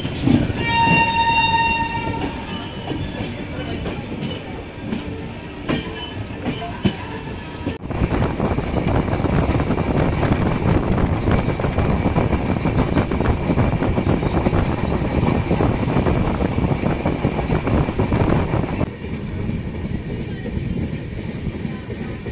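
A train horn sounds once, for about a second and a half, near the start. After an abrupt cut, a moving train runs steadily, its wheels clattering on the rails as heard from on board.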